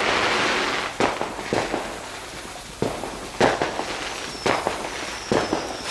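Fireworks going off: a rushing hiss at the start, then a string of sharp bangs and cracks at uneven intervals, with a faint falling whistle in the second half.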